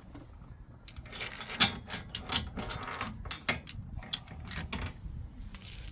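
Ratchet wrench clicking in uneven strokes with metal knocks, working the forcing screw of a wheel bearing press tool.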